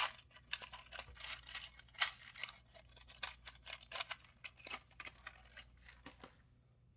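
Crinkling and small clicks of plastic battery packaging being handled and opened to take out a new SR626SW silver-oxide button cell, stopping shortly before the end.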